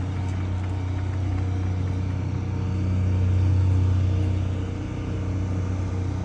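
A motor vehicle's engine idling steadily with a low pitched hum; it grows a little louder about halfway through, then settles back.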